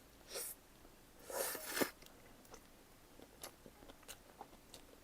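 Bite into a bacon potato pizza: a short rustle near the start, a louder crunchy bite about a second and a half in, then soft, quiet chewing with small wet clicks.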